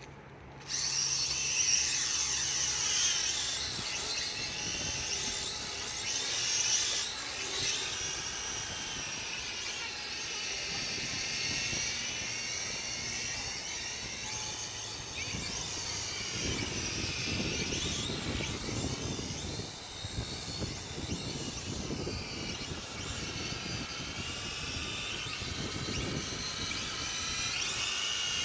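Mould King Super X quadcopter's motors and propellers whining, starting up about a second in, the pitch rising and falling over and over as the throttle changes. From about halfway on, gusts of wind rumble on the microphone.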